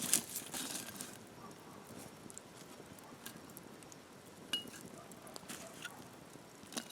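Light taps, clicks and a small ringing clink of utensils and food being handled during outdoor cooking, scattered and irregular, with a few louder knocks at the start and about four and a half seconds in.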